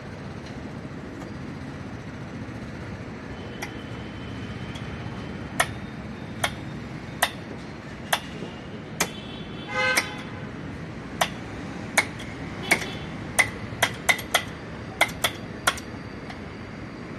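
Sharp metallic clicks of a hand tool working on a car's oil filter during tightening, about fifteen in an irregular series starting about five seconds in. A brief squeak comes around the middle, over a steady low background hum.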